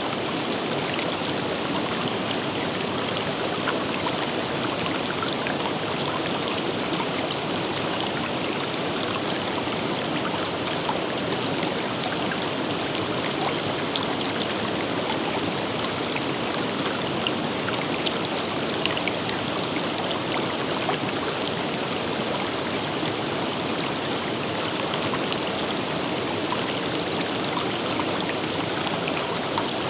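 River water flowing over rocks in a steady rush, with small splashes and droplets ticking through it.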